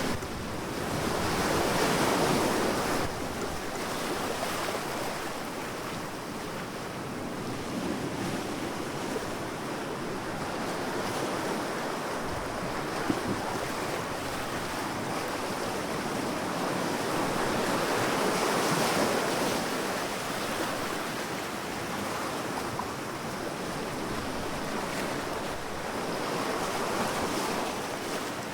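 Sea waves breaking and washing onto a sandy beach in a continuous rush of surf. It swells louder about two seconds in, again past the middle, and near the end.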